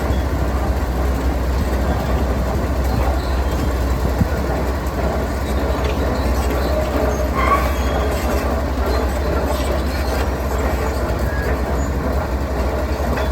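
Heavy diesel construction machinery running steadily, a continuous deep engine rumble with track and body rattle, with a short high squeak about halfway through.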